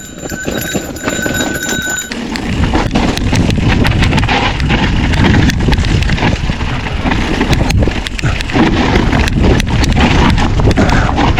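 Mountain bike rolling over rough, rocky trail, recorded on a bike- or rider-mounted action camera: a steady rush with many sharp rattles and knocks from the tyres and frame. For about the first two seconds a steady high whine sounds over a quieter roll, then the rattling and rushing get louder and stay that way.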